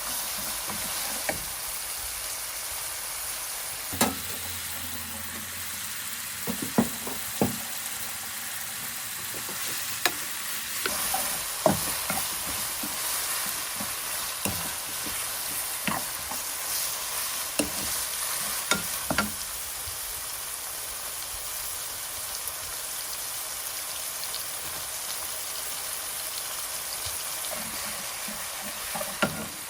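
Food sizzling as it fries in a pan, a steady hiss with scattered sharp knocks and clicks of stirring.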